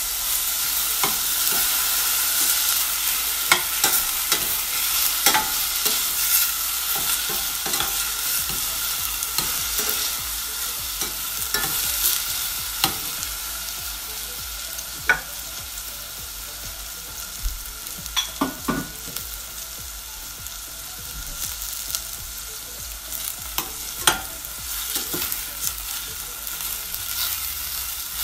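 Diced tomatoes, onions and ginger sautéing in a little oil in a stainless steel saucepan: a steady sizzle that eases off through the middle and picks up again near the end, with scattered sharp clicks.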